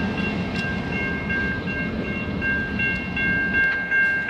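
CN train rolling slowly in reverse across a level crossing, a steady rumble with a high-pitched ringing of several steady tones held above it.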